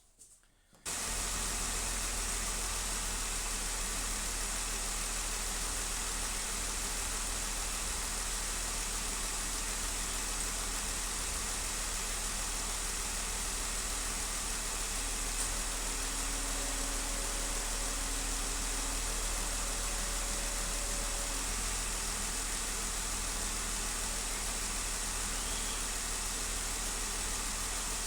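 2015 Jeep Wrangler's 3.6-litre V6 idling with a cylinder 1 misfire, a steady low rumble with hiss that comes in abruptly just under a second in.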